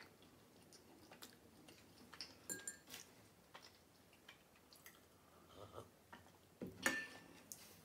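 Faint chewing with scattered small mouth clicks as a bread-and-cheese bite is eaten, then a louder, short sip from a glass mug of coffee near the end.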